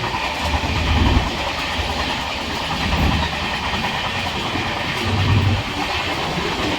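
Train moving along the track: a steady rumble and rail noise, with low thuds every two seconds or so.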